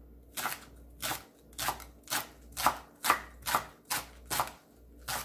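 Kitchen knife thinly slicing green garlic stalks on a cutting board: a steady run of sharp chopping strokes, about two a second, with a brief pause near the end.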